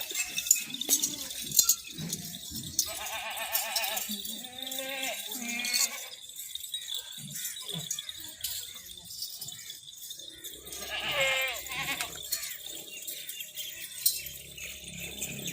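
Makhi Cheeni goats bleating, several quavering calls: one about three seconds in, another running from about four and a half to six seconds, and one around eleven seconds. Scattered light clicks and rattles are heard between the bleats.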